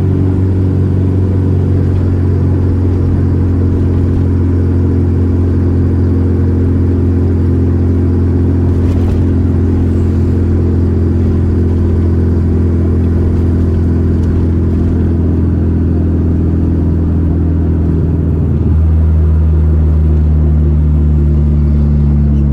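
Volkswagen Gol G4 Rallye's four-cylinder engine running steadily while driving. About nineteen seconds in, its pitch steps down and it gets slightly louder.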